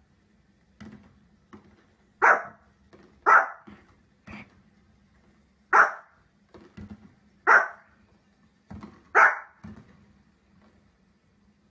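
A dog barking: five loud, sharp single barks spaced one to two seconds apart, with softer barks in between.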